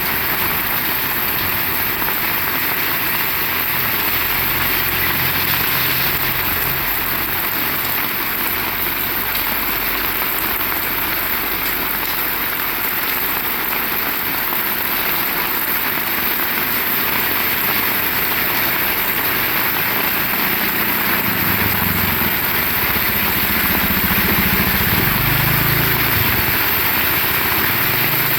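Heavy rain falling steadily, with a low rumble rising in over the last several seconds.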